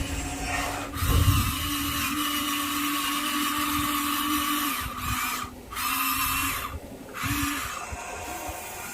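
Small electric motors of radio-controlled construction models whining steadily, dropping out briefly twice in the second half, with a low thump about a second in.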